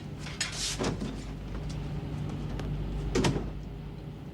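Steady low hum of a ship's background machinery, with two brief swishing sounds, one about half a second in and one about three seconds in.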